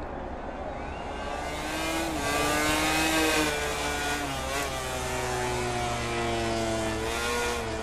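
MotoGP racing motorcycle engines at high revs, their pitch sliding up and down as the riders shift and throttle. The sound swells loudest a couple of seconds in.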